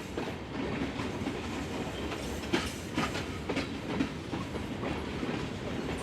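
Norfolk Southern freight train rolling past, its steel wheels clicking over the rail joints every half second or so above a steady rumble.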